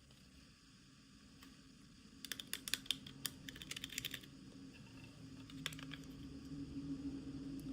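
Quick small clicks and taps of plastic toy packaging being handled and opened, bunched together about two to four seconds in, with a low steady hum swelling toward the end.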